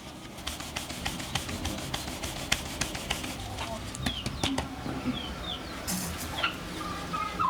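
A run of sharp, irregular clicks and knocks, with a few short bird chirps about four to five seconds in.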